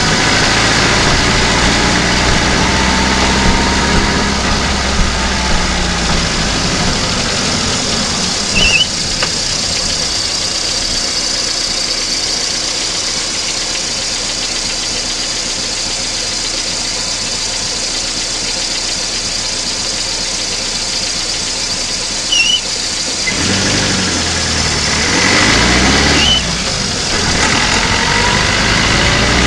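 VAZ-2109's four-cylinder petrol engine heard from inside its engine bay while driving. The revs sink over the first several seconds, the low drone fades to a steady rush for a long stretch, and near the end the revs rise and fall again. Two brief high chirps cut in along the way.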